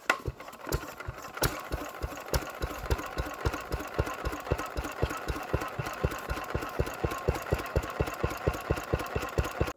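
1931 Ruston engine running, its knocking firing beats picking up from slow, widely spaced thuds over the first couple of seconds to a steady beat of about five a second.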